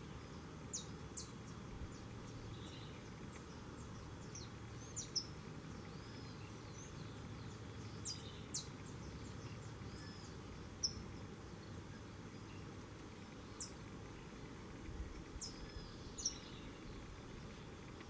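Birds giving short, sharp, high-pitched chip calls, often in quick pairs, repeated every few seconds over faint steady background noise.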